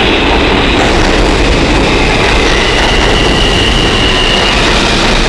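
New York City subway E train running through the station with a loud, steady rail noise; a high, thin wheel squeal comes in around the middle.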